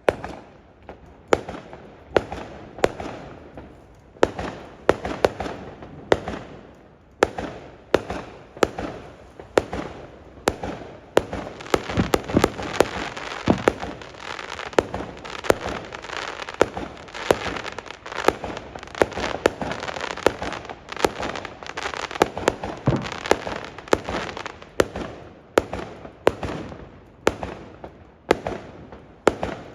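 Fireworks going off: a string of sharp bangs, spaced about a second apart at first, crowding into a dense barrage of bangs and crackle through the middle, then thinning out again near the end.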